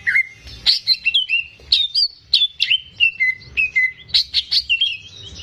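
Cucak ijo (green leafbird) in full song: a rapid run of loud, short, sharp whistled notes, about four a second, most sliding down in pitch.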